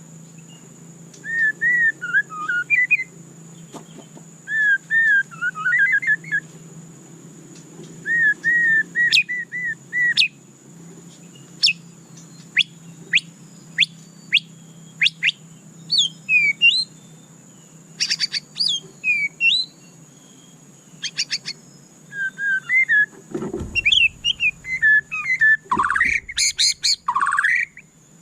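White-rumped shama singing: a run of varied phrases of rich whistles, quick upward-sweeping notes and fast chip series, with short pauses between phrases, over a faint steady hum.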